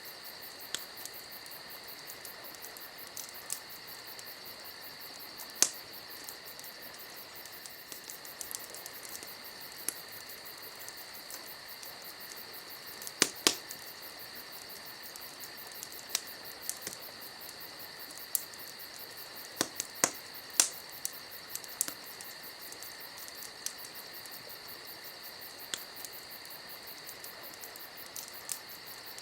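Campfire wood crackling, with irregular sharp pops that cluster in the middle of the stretch and are the loudest sounds. Behind the fire, crickets chirp in a steady high trill.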